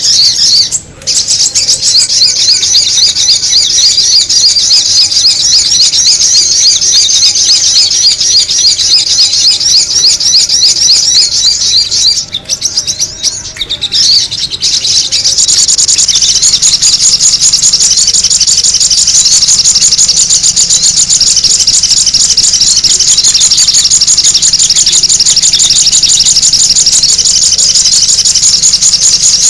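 Sogon bird call played loudly as a lure: a dense, continuous stream of rapid high chirps. The chirping drops out briefly about a second in and falters around the middle before going on steadily.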